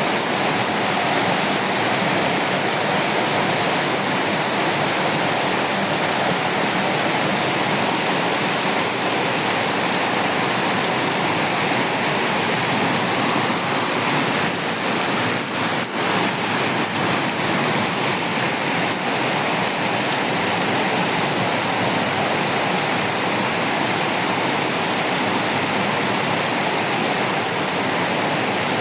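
Very heavy rain falling in a steady downpour, a loud even hiss of water.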